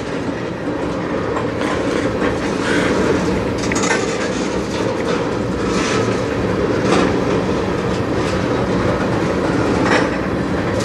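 Freight train of steel tank cars rolling slowly past: a steady rumble of wheels on rail, with a few clacks at irregular intervals.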